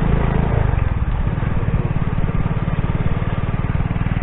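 Motorcycle engine running, its note dropping about a second in and then holding steady with an even, rapid pulse.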